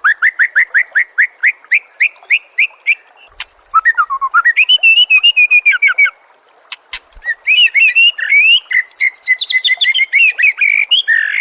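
White-rumped shama (murai batu) singing: fast runs of repeated, rising whistled notes in three bursts, with short pauses about three and a half and six seconds in.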